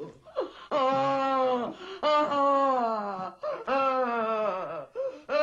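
The possessed girl's demonic voice gives about four long wailing moans in a row, each one sliding down in pitch, with short breaks between them.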